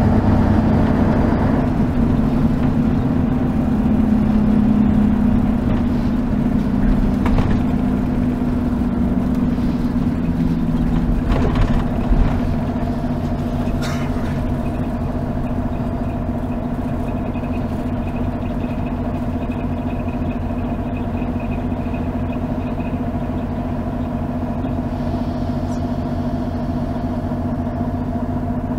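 V8 diesel engine of a Mercedes-Benz O 403 SHD coach running, heard from inside the bus. It is louder and changes pitch for about the first twelve seconds, then settles into a steady, slightly quieter run, with a few brief knocks along the way.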